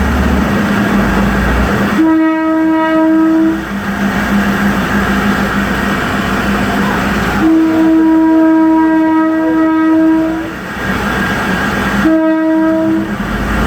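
Diesel train's horn sounding three times: a short blast, a long blast of about three seconds, then a short blast, over the steady drone of the train's engine.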